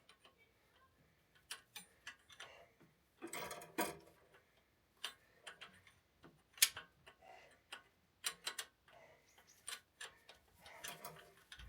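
Irregular clicks and taps of a spanner working loose the fuel pipe fittings on a diesel injection pump, some taps ringing briefly.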